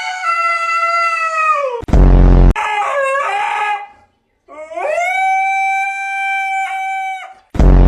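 A dog howling in long, held, high-pitched calls, one of them wavering. The howls are cut twice by a very loud, low buzzing blast, about two seconds in and again near the end.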